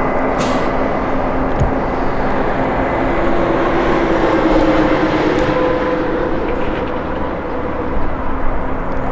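CASE combine harvester running steadily, engine and threshing machinery together, with a faint tone that drifts slightly upward in the middle.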